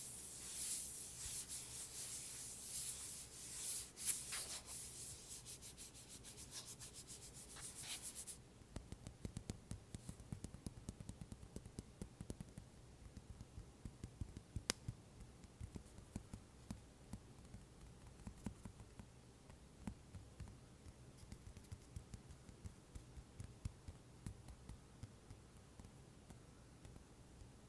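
Scratching and rubbing on an iPad cover for about eight seconds. Then comes a quieter run of light, quick taps and clicks on it.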